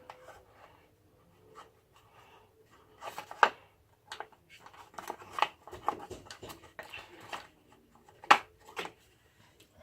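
Small metal parts and hand tools clicking and scraping while a washer is worked off a motorcycle's gear selector shaft. The clicks are irregular, with sharp ones about three and a half seconds in and again about eight seconds in.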